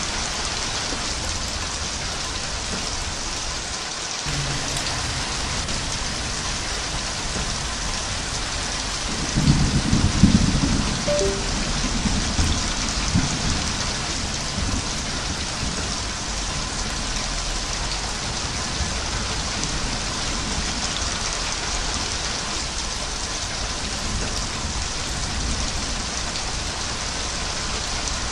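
Steady heavy rain, with a low rumble of thunder about nine seconds in that swells and dies away over roughly five seconds.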